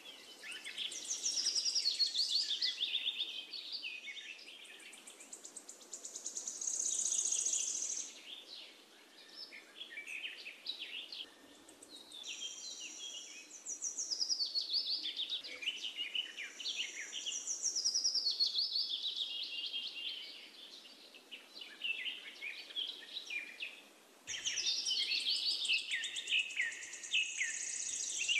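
Birds singing, a dense run of rapid high chirps and trills that swells and fades every few seconds.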